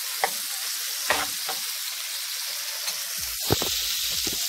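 Ackee and saltfish with peppers and onion frying in a pan with a steady sizzle, while a spoon stirs it, scraping and knocking against the pan a few times.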